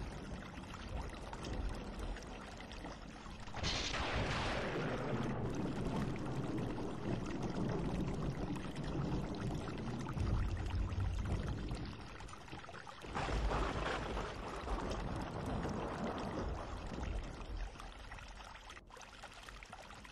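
Spatula stirring fried cauliflower through a thick chilli sauce in a frying pan: a steady wet scraping noise, with louder surges about four and thirteen seconds in.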